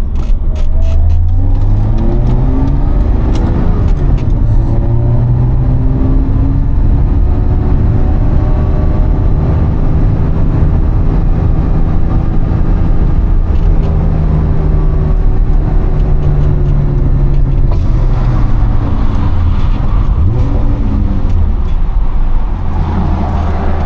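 BMW E30 325i's M20B25 straight-six through an Eisenmann exhaust with the catalytic converter deleted, driving under load. Its pitch climbs over the first few seconds and drops at a gear change, holds fairly steady with slow rises and falls, dips about 18 seconds in, then climbs again near the end.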